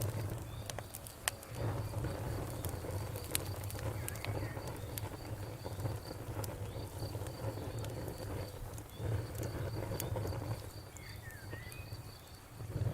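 Campfire crackling, with scattered sharp pops over a low steady rumble of burning wood. An insect keeps up a fast, even high-pitched chirp behind it, with a few short bird-like chirps near the end.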